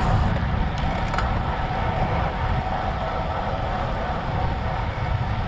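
Steady wind buffeting the microphone of a GoPro on a moving road bike, with the hum of the bike's tyres rolling on pavement and a few light ticks about a second in.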